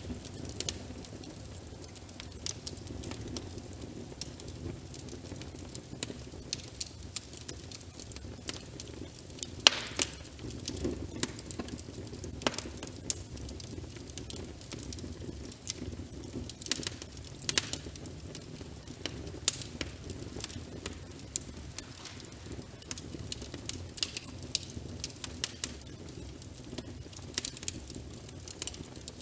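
Wood fire crackling, with irregular sharp pops and snaps, the loudest about ten seconds in, over a steady low rain hiss.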